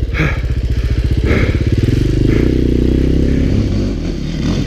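Dirt bike engine running on a trail, chugging at low revs with distinct firing pulses, then revving up to a steadier, higher pitch about two seconds in.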